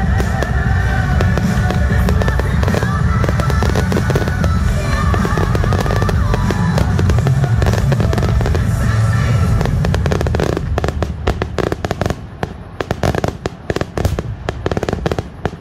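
Fireworks finale: a dense, continuous barrage of shell bursts and crackling over music. About ten seconds in the music ends and the barrage thins to separate sharp crackles and pops that die away.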